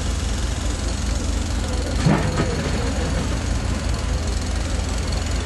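Construction machine's engine running steadily with a low rumble, with a brief louder sound about two seconds in.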